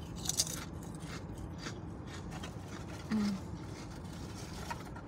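Crunching bites and chewing of a crispy chip, a string of sharp crackles with the loudest just after the start.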